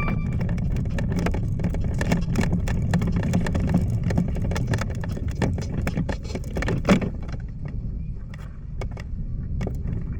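Wind buffeting the microphone in a steady low rumble, with scattered small clicks and rattles and one sharper knock about seven seconds in.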